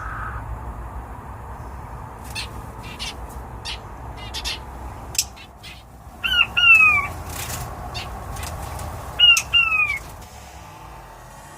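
A bird squawking: two quick harsh calls that fall in pitch, then the same pair again about three seconds later. These are the loudest sounds. Before them come a few sharp clicks or taps.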